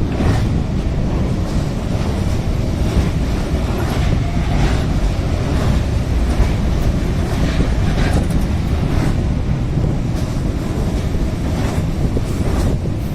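Freight train passing, its wheels clicking repeatedly over the rail joints above a heavy low rumble.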